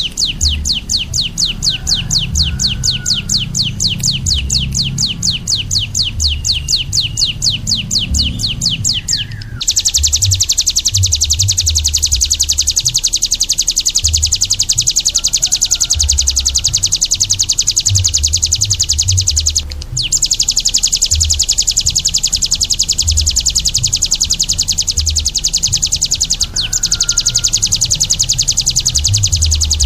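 Small songbird song: a rapid series of high chirps, about seven a second, switches after about nine seconds to a very fast, high continuous trill that breaks off briefly twice. A low rumble runs underneath.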